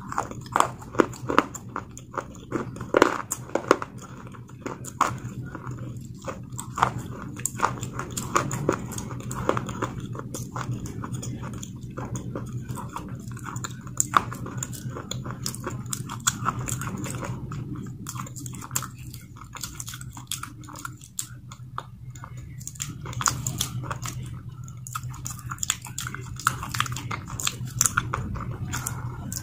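Close-up mouth sounds of chewing a wet grey paste: sharp wet clicks and smacks coming irregularly, several a second, over a steady low hum.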